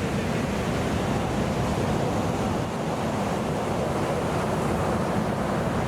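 Ocean surf from a typhoon swell, waves breaking and washing in a steady rush, with wind on the microphone.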